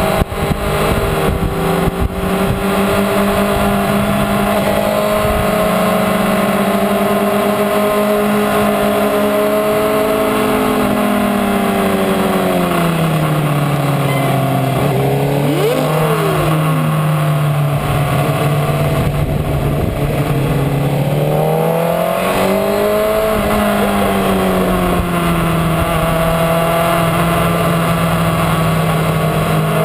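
Sport motorcycle engine pulling hard at high revs, heard from onboard at track speed over steady wind rush. The engine note holds steady, sinks gradually as the bike slows through the middle, then climbs back up and holds again.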